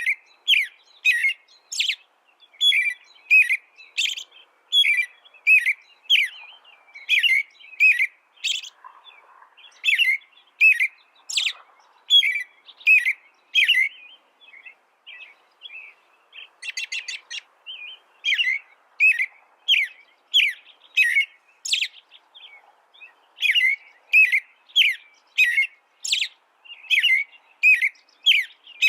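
A songbird singing a long, continuous song of short, sharp chirping notes in quick succession, with a softer, faster trill about two-thirds of the way through.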